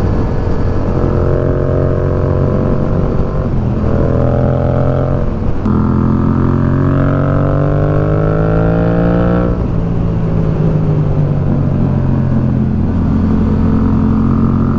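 Motorcycle engine pulling hard through the gears: the pitch rises, drops with an upshift about 4 s and again about 5.5 s in, climbs for several seconds, then drops near the 10-second mark and settles into a steady cruise. Low wind rumble lies under it throughout.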